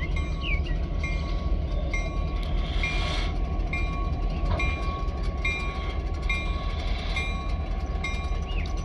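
Train rolling slowly through a road crossing: the Norfolk and Western 611 J-class steam locomotive and tender being towed dead, not under their own steam, with a steady low rumble. A bell rings in an even rhythm, about once every three-quarters of a second.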